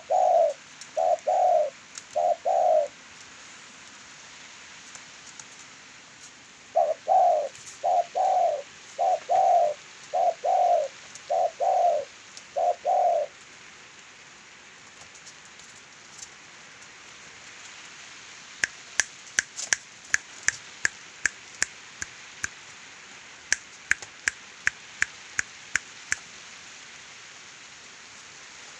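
Zebra dove (perkutut) cooing in rhythmic phrases: a short phrase of about four notes, then a longer phrase of about seven notes. In the second half a series of sharp clicks comes in two clusters.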